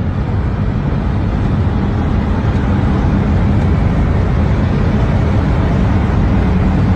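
Steady rush of air past a light plane's cabin as it glides with its engine stopped, slowly getting louder during a sideslip.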